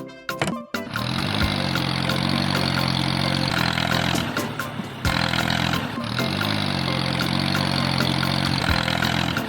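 A motor or engine running steadily, its low drone rising in pitch at the start and then holding, with the same rising-then-steady pattern starting over about four seconds later.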